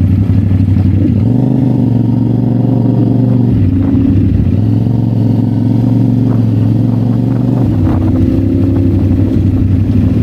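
CF Moto 450SR-S's 449 cc parallel-twin engine pulling under load while riding, its exhaust note rising as the throttle opens, dipping briefly partway through and falling back near the end as the rider eases off.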